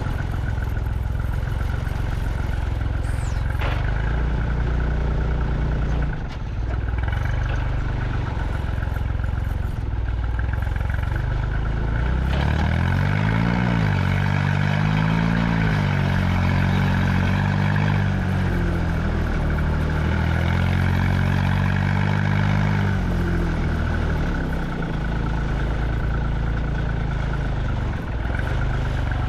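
Truck engine running as the truck drives, with the engine's pitch rising and falling several times over about ten seconds in the middle as it accelerates and slows.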